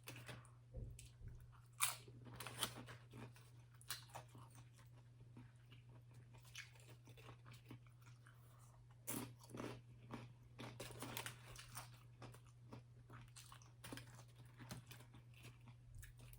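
A person chewing and crunching tortilla chips from three-layer nachos close to the microphone, in irregular crunches with louder clusters about two seconds in and again around nine to eleven seconds. A faint steady hum lies underneath.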